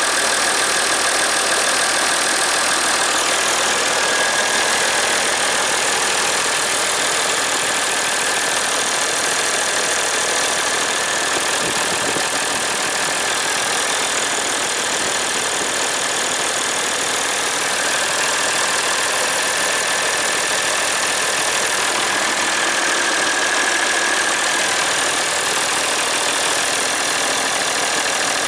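Massey Ferguson 1135 tractor's diesel engine idling steadily, with a faint steady whine over the running.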